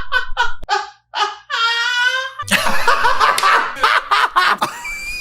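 A woman's high-pitched laughter: a run of short laughing bursts, then a held squealing note about one and a half seconds in, then a longer stretch of continuous laughing.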